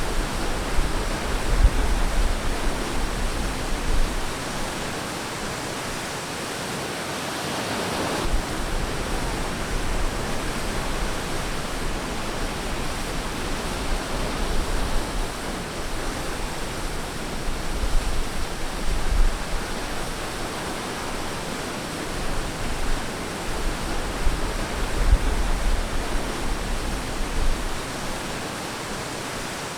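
Ocean surf washing onto a beach: a continuous hiss of breaking waves, with one wave rushing in more strongly about eight seconds in.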